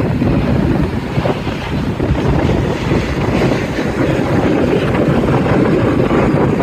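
Wind buffeting the microphone: a loud, steady low rumble without any clear tone.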